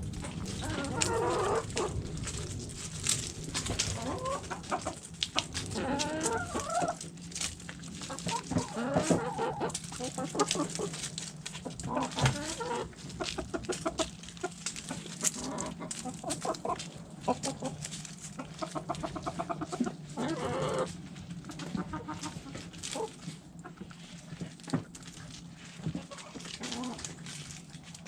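Backyard hens clucking and calling over one another in a flock, in short pitched calls that come every second or two, with many sharp clicks mixed in. A steady low hum runs underneath.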